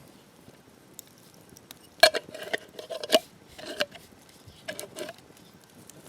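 Metal utensils clinking and knocking against cookware in three short bursts, each strike ringing briefly.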